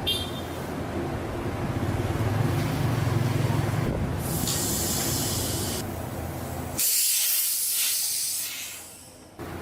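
Two bursts of hissing spray, each about a second and a half long, over a low steady rumble that cuts off abruptly near the second burst.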